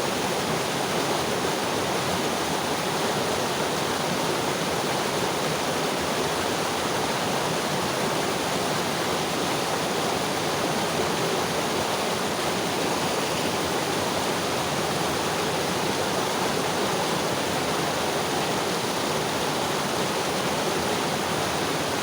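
Mountain river flowing over rocks, a steady rushing of water.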